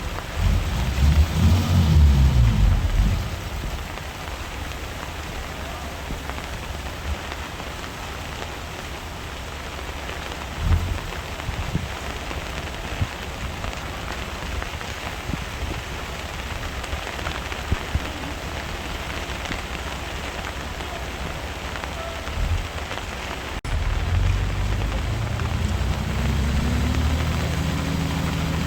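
Heavy-equipment diesel engine rumbling unevenly for the first few seconds, then a steady hiss with occasional low thuds. About 24 seconds in, the sound changes abruptly to a diesel engine running steadily, its pitch rising a little soon after.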